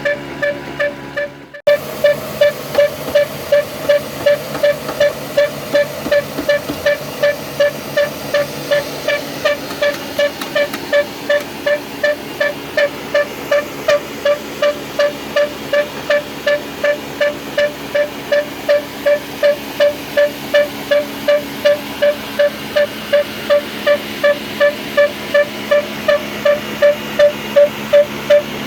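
Old stationary engine running a flour mill, with a steady, even beat of about two pulses a second. The sound cuts out briefly about a second and a half in, then picks up again.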